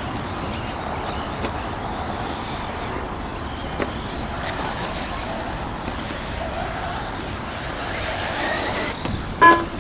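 Electric RC buggies racing on a track: a steady din with faint motor whines that rise and fall as the cars accelerate and brake. A short voice cuts in near the end.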